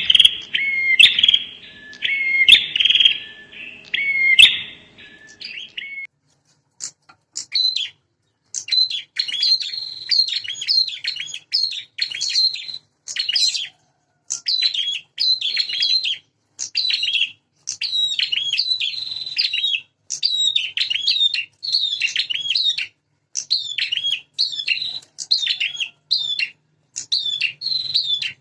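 Prinias (prenjak) calling in a territorial fight: a dense, buzzy chattering for the first six seconds, then after a short gap a run of quick, high, repeated call phrases about once a second.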